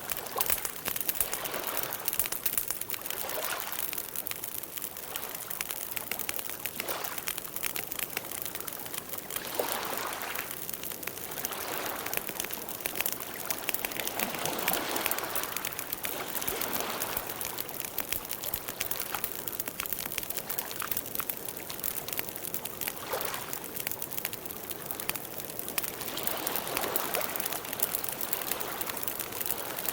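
Campfire burning: wood crackling with many small, irregular pops, over a soft rushing that swells and fades every few seconds.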